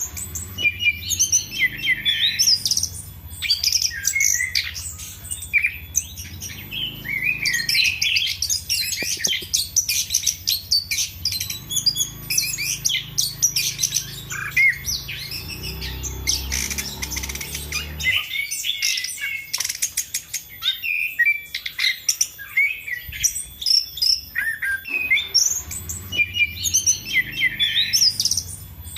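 Chestnut-capped thrush singing hard, a fast, unbroken string of varied chirps, whistles and harsher squawky notes. A low hum runs underneath until about two-thirds of the way through.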